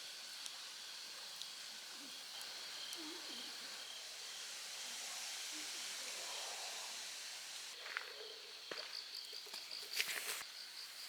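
Crickets chirping in a steady high trill over a faint hiss. Near the end a few soft knocks and a short, louder rustling clatter come in.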